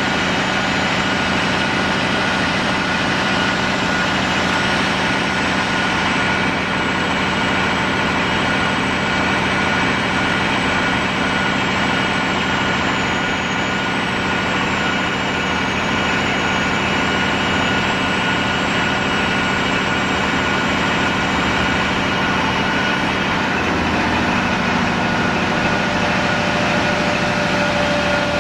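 Fire department aerial ladder truck's diesel engine running steadily, with steady whining tones over the engine hum; the tones shift slightly about 23 seconds in.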